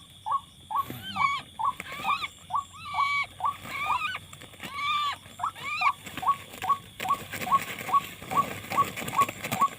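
Bird-like chirping: short chirps repeat evenly, about three a second, with longer rising-and-falling calls over them during the first half, then a faint rustle under the chirps near the end.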